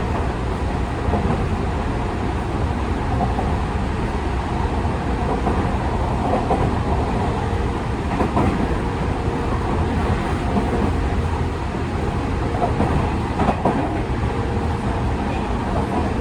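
Running noise heard inside a Tokyu 5000 series electric train, in a motor car with a Hitachi IGBT-VVVF inverter and TKM-98 traction motors: a steady rumble of wheels on rail with a faint steady whine and a couple of rail-joint clicks.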